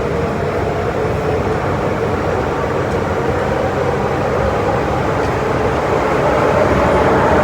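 MTR Metro-Cammell M-Train electric multiple unit running between stations: a steady rumble of wheels on track with a faint motor whine, growing a little louder near the end.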